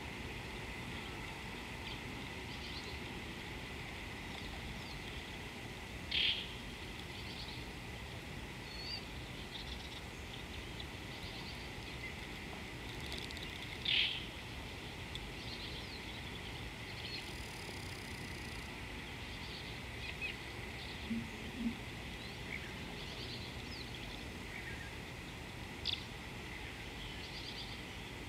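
Wild birds giving short calls now and then over a steady background hiss; the two loudest calls come about six and fourteen seconds in, with fainter chirps between.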